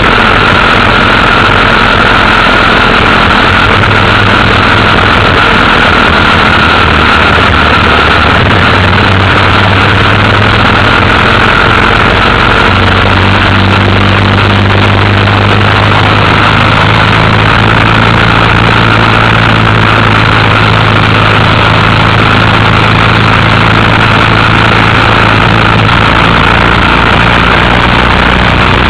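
Motorcycle engine running steadily under a loud, even rush of noise, as from riding with wind on the microphone; the engine note shifts to a new steady pitch about thirteen seconds in.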